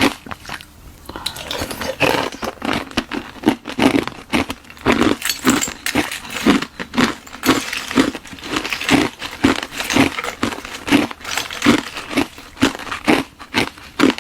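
Ice being bitten and chewed close to the microphone: crisp crunches, about two a second, as a hollow ice shell filled with frozen milk tea is eaten. The crunching sets in after a quieter first second or so.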